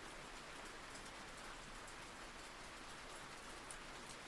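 Soft, steady rain falling, an even hiss with faint scattered drop ticks.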